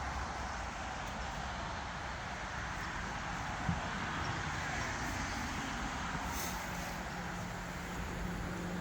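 Steady outdoor background noise with no clear pitch or rhythm, and a single faint knock a little past three and a half seconds in.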